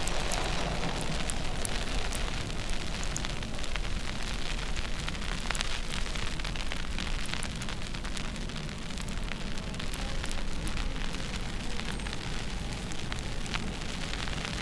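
Steady snowstorm noise: wind rumbling on the microphone under a crackling hiss, with scattered small ticks throughout.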